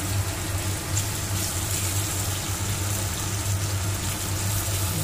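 Pork, onions and tomatoes sizzling in butter and oil in a wok, stirred with a wooden spatula, over a steady low hum.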